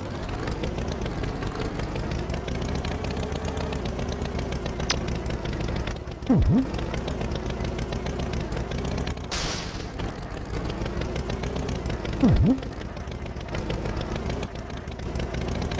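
Cartoon engine sound effect: a steady drone whose pitch slowly wavers up and down. It is broken twice by a short, loud effect that drops steeply in pitch, and once by a brief hiss.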